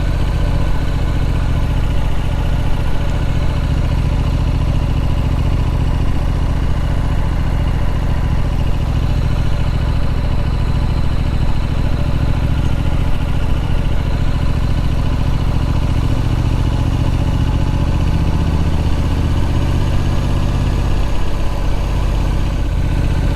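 Triumph Street Scrambler's 900 cc parallel-twin engine running steadily under way, with road and wind noise. The engine note holds fairly even, shifting a little in pitch about two-thirds of the way through.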